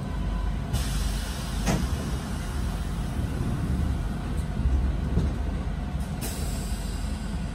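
Inside a Paris RER A commuter train standing at a station platform: a steady low rumble from the train's running equipment, with a single knock about two seconds in and short hisses near the start and near the end.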